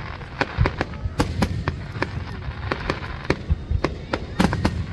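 Aerial fireworks bursting in an irregular string of sharp bangs, several a second, over a continuous low rumble.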